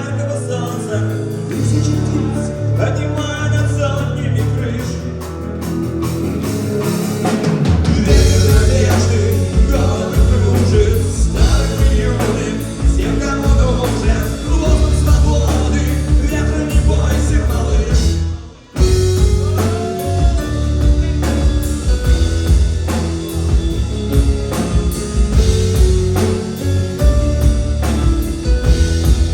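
Rock song played by a band. A lighter opening gives way to full drums and bass about eight seconds in, and after a brief break just past the middle the full band comes back in.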